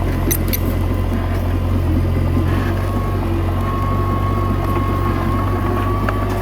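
Komatsu D21A bulldozer's diesel engine running steadily, with a thin high whine over it in the second half.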